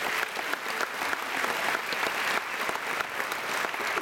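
Audience applauding, a steady dense clapping that fades away just after.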